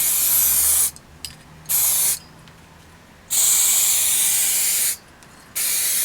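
Aerosol spray can hissing in four short bursts with brief pauses between them, with a few faint clicks about a second in.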